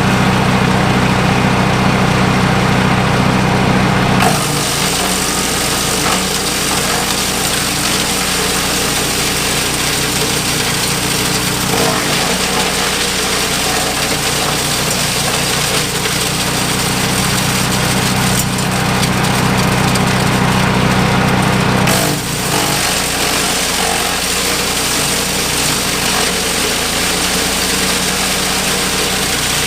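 Yardbeast 2090 wood chipper/shredder running steadily on its engine. About four seconds in, the sound abruptly turns fuller and harsher with a dense hiss and rattle over the engine note, and it shifts again a little after twenty seconds.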